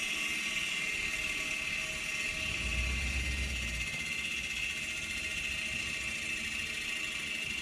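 Steady mechanical whir with a fixed high-pitched whine, the constant background hum of the workspace, with a brief low rumble about three seconds in.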